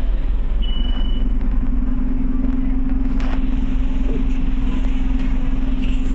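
Scania OmniCity bus in motion, heard from inside the passenger saloon: a steady low engine drone with road rumble. A short high beep sounds about half a second in.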